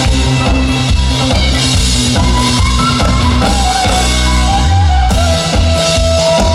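Live trot band music playing an instrumental passage, with drum kit and bass under a sustained, gliding melody line and no singing.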